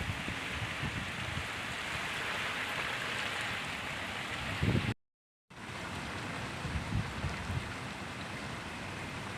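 Heavy rain from a cyclone falling steadily, with occasional low gusts of wind on the microphone. The sound drops out completely for about half a second about five seconds in, then the rain resumes.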